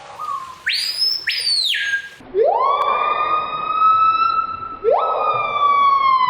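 Screaming piha calling: loud, piercing whistled notes, a pair of short high ones about a second in, then two long whistles that each swoop sharply up and hold, the last starting to slide down near the end.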